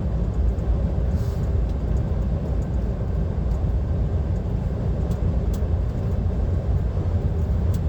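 Steady drone of a DAF XF 530 truck cruising at motorway speed, heard inside the cab: low diesel engine hum mixed with tyre and road noise, even throughout.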